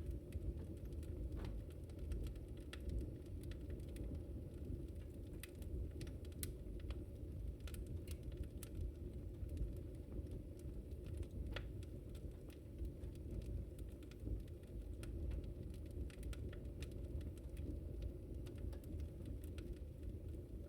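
Wood campfire burning, with a steady low rumble of flames and irregular sharp crackles and pops, some single and some in quick clusters.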